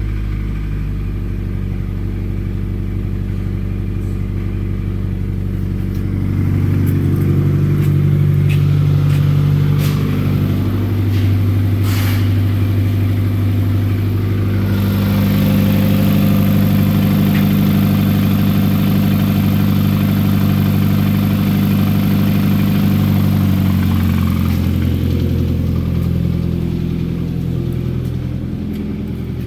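2014 Nissan Versa's 1.6-litre four-cylinder engine running: it idles, then its revs are raised about six seconds in and let back down, raised again and held for several seconds, then returned to idle near the end.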